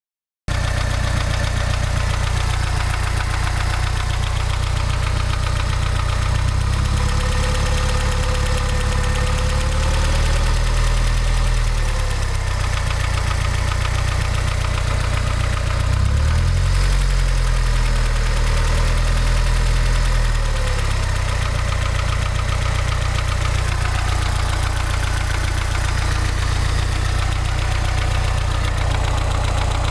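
Mazda 626 GD engine running with a knock in it whose cause the owner cannot identify. The engine note rises twice: briefly about ten seconds in, and again for a few seconds from about sixteen seconds in.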